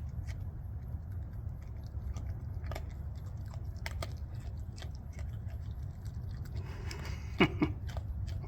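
Raccoon chewing dry cat food, with irregular crisp crunches over a steady low hum. A short falling squeak near the end.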